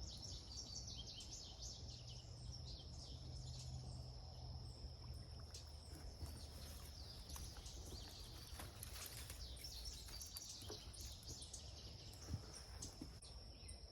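Creekside ambience: a steady high insect drone with scattered bird chirps, and a low rumble through the first few seconds. A single short knock sounds near the end.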